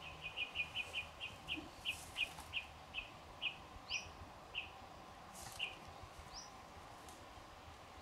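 A bird calls a run of about fifteen short, high chirps, quick at first and slowing down over about five seconds, with a couple of brief rising whistles near the middle.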